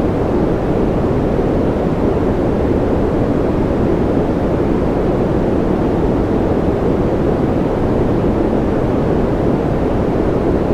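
Continuous sleep-aid noise track: a steady, unchanging rushing hiss, deep and weighted toward the low end rather than bright.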